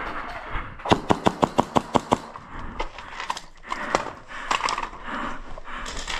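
Airsoft guns firing: a rapid burst of about ten shots at roughly eight a second, followed by scattered single shots.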